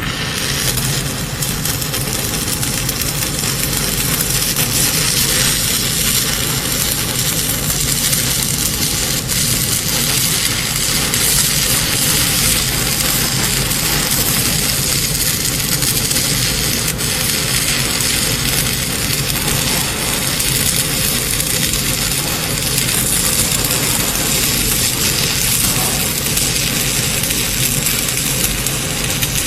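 Stick (shielded metal arc) welding with an E6013 coated electrode: the arc crackles and sizzles steadily as a weld bead is laid.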